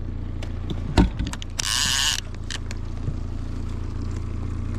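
Boat motor running with a steady low hum while a hooked fish is fought beside the boat. A knock comes about a second in, then a half-second burst of rasping, splashy noise just before the two-second mark.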